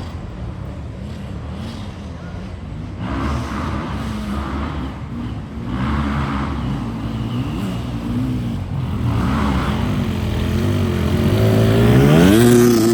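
Motocross motorcycle engines running with the pitch wavering up and down as the throttle is worked. Near the end one engine revs up in a loud rising whine.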